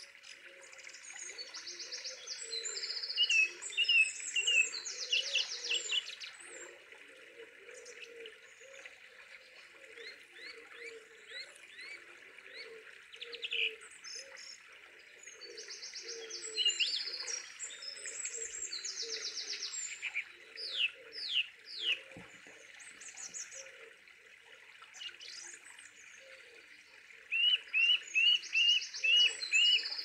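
Several birds chirping and trilling in quick high runs, with a few falling whistles, over a steady high drone; a loud run of evenly repeated chirps comes near the end.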